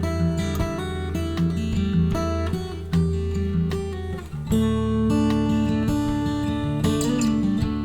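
Acoustic guitar playing an instrumental passage between sung verses, with plucked and strummed chords and a chord change about halfway through.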